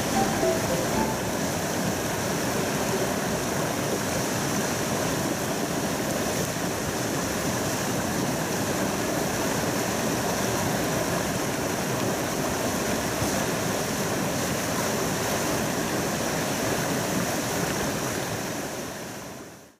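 Mountain stream rushing steadily, fading out at the very end.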